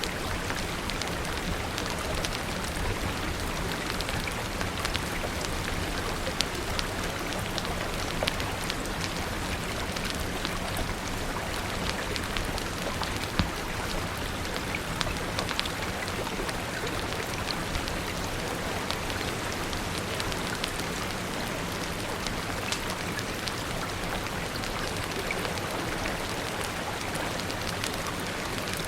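Steady rain mixed with a crackling fire: an even wash of rainfall with many small, sharp ticks and pops scattered through it.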